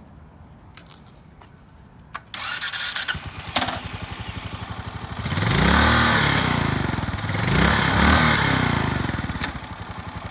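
Suzuki Boulevard S40's single-cylinder 650cc engine being started: a click about two seconds in, a second or so of starter cranking, then it fires and idles with an even beat. It is revved up twice and settles back to idle near the end.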